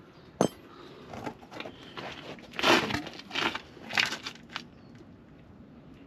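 A sharp metal click about half a second in, then several short metallic scrapes and clinks, the loudest about two and a half seconds in: steel tools and parts being worked while pulling a van's driveshaft out.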